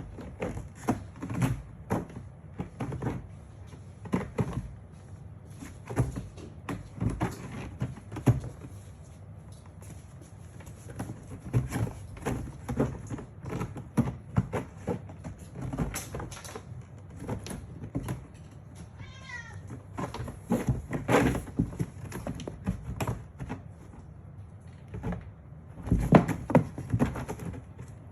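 Bengal cat clawing at a scratching board: runs of short scratching strokes with brief pauses between them. The cat gives one short meow about two-thirds of the way through.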